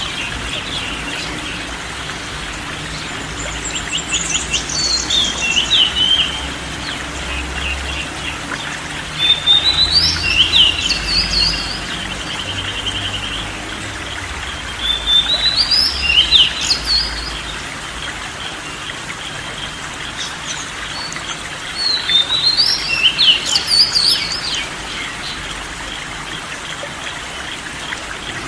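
A songbird singing short, quick chirping phrases, repeated four times about every six seconds, over a steady trickling water hiss.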